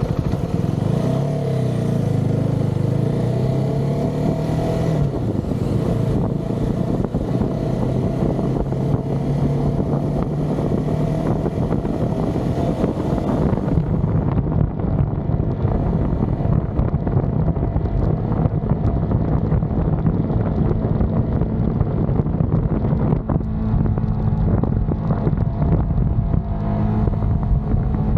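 Motorcycle engine running on the move, its note shifting up and down in the first few seconds, then holding steadier.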